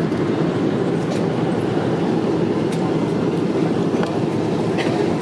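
Steady rumbling cabin noise of a Boeing 777-300ER rolling on the ground after touchdown, engines and wheels heard from inside the cabin, with a few faint light clicks.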